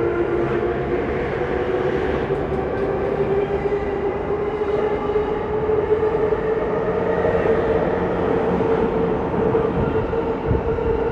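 E231-1000 series electric multiple unit moving off from the platform, its inverter and traction motors giving a steady whine of several tones over the running rumble, the lowest tone rising slightly at first. A few knocks of wheels over rail joints come near the end.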